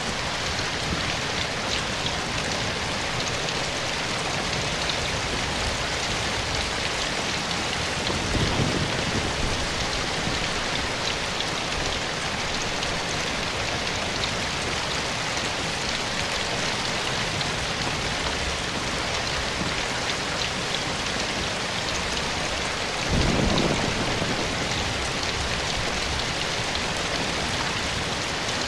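Steady rain falling in a dense, even patter, with two brief low rumbles about 8 and 23 seconds in.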